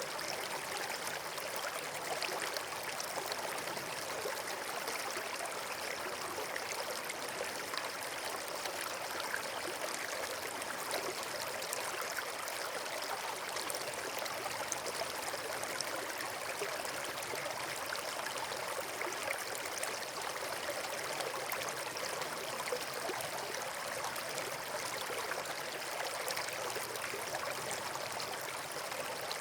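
Steady rushing of flowing water, like a stream or small waterfall, running evenly without pause.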